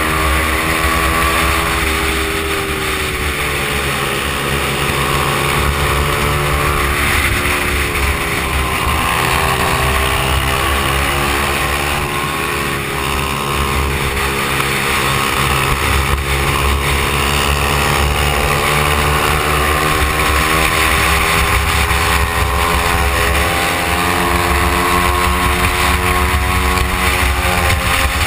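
Stock Honda XR100 mini bike's single-cylinder four-stroke engine running hard on track, its revs climbing and dropping several times, with a steady rushing noise over it.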